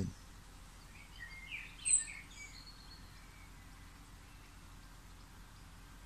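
A bird sings a short run of quick high chirps and whistles, with one sharp high note about two seconds in, over a steady low outdoor background hiss.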